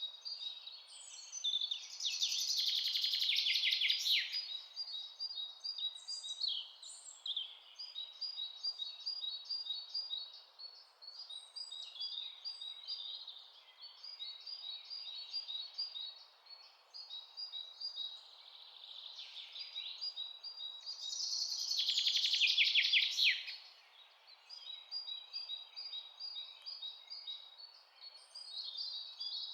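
Several birds chirping in a forest, with many short high chirps repeating throughout. Two louder, fuller songs with rapid falling notes come about two seconds in and again about twenty-one seconds in, over a faint steady hiss of background noise.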